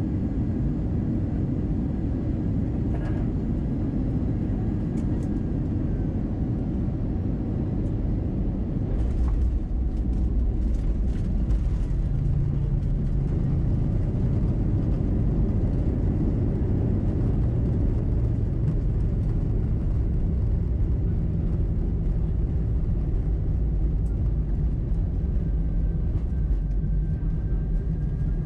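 Cabin noise of an Airbus A320-212 with CFM56 engines, heard from a forward window seat during the landing: a steady rumble of engines and airflow. About nine seconds in, a few knocks sound and the low rumble grows louder, then holds a steady low hum.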